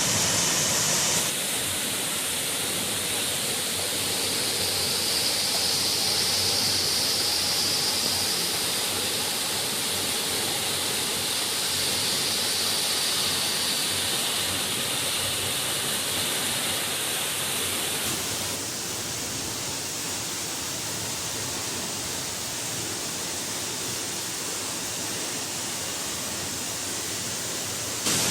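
A 60-foot waterfall running at full flow after heavy rain: a steady, dense rush of falling water. Its tone and level shift abruptly about a second in and again at about eighteen seconds in.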